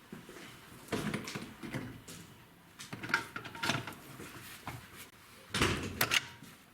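Metal clicks and knocks of engine parts and tools being handled while the camshaft timing sprocket is fitted and lined up, in irregular bursts with the loudest cluster near the end.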